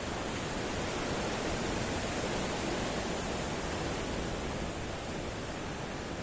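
Ocean surf: waves washing in as a steady rushing noise that swells slightly and then eases.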